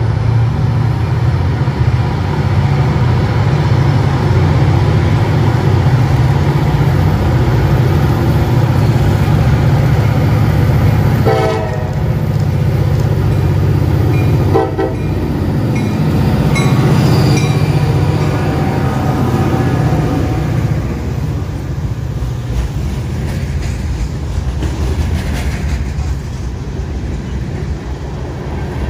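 CSX freight train led by an EMD GP40-2 diesel locomotive approaching and passing, its engine giving a loud, steady low rumble. The locomotive horn sounds two short blasts a little before halfway. In the last third the engine fades and the hopper cars roll past with wheel clatter.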